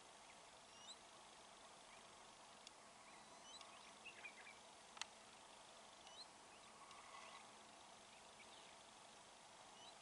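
Near silence: faint outdoor ambience with scattered short, high bird chirps and a single sharp tick about halfway through.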